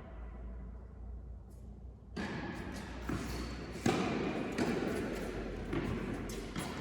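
Tennis ball struck by rackets and bouncing on an indoor court: a run of sharp thuds about once a second, starting about two seconds in, with the loudest near the middle and a hall echo.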